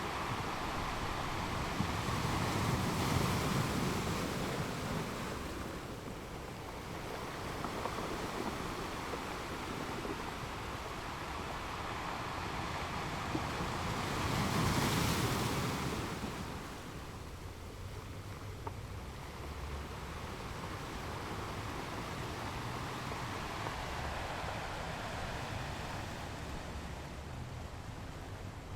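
Ocean waves breaking on rocks: a continuous wash of surf, with two bigger waves crashing about three seconds in and again around fifteen seconds, then a steadier, softer wash.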